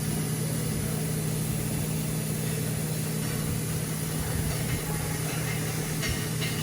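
Wire wheel bench grinder's electric motor running steadily with a constant hum, the machine working again after its switch repair. A few light ticks near the end.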